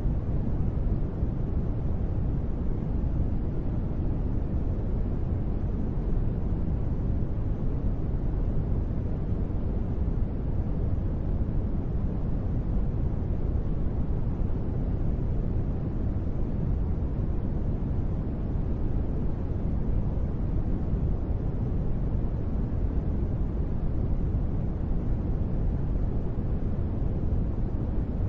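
Steady, deep rushing noise from a sleep white-noise track billed as gentle rain, heaviest in the low end and dull on top, with no single drops, gusts or changes.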